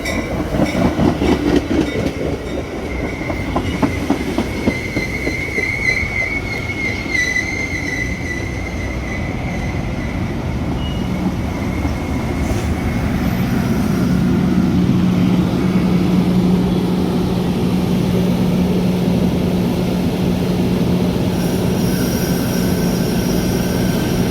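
Metra commuter train in motion: wheels clicking over rail joints in the first few seconds, then a wavering high wheel squeal for several seconds. A steady low hum comes up and holds from about halfway through.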